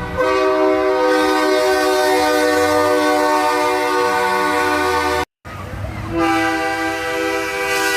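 Semi truck's multi-chime air horn (train-style horn) blowing two long blasts, each a chord of several notes sounded together. The first blast cuts off abruptly about five seconds in, and the second starts about a second later.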